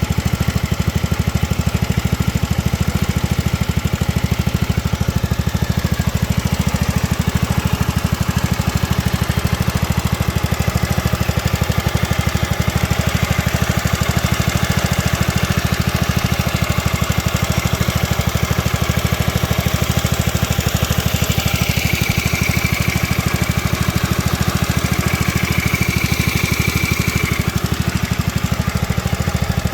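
Small four-stroke motorcycle engine idling steadily, with fast, even firing pulses. A thin, high whine sounds twice in the second half.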